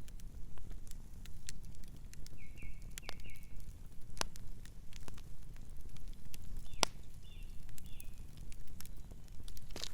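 Campfire crackling: irregular sharp pops and snaps over a steady low rumble of burning wood. Short high chirping calls come twice, about two and a half seconds in and again near seven seconds.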